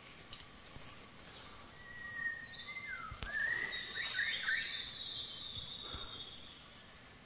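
A bird calling in the forest canopy: a few whistled notes starting about two seconds in, one held steady, one dipping and rising again, then a higher note that trails off near the end.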